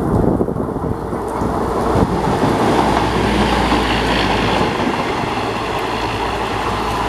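A train passing close at speed on the near track: a rush of wheel and rail noise that builds about two seconds in and is loudest around the middle, with a clack as wheels cross a rail joint.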